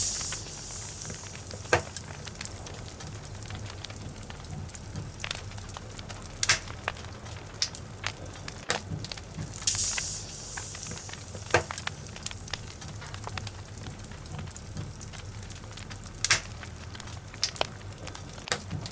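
Wood logs burning in a fireplace, with irregular sharp crackles and pops over a steady low rush. Brief bursts of high hissing come near the start and again about halfway through.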